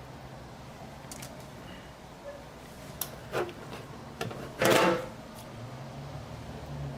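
Scattered small clicks and knocks of objects being handled, with one louder clatter about two-thirds of the way through, over a steady low hum.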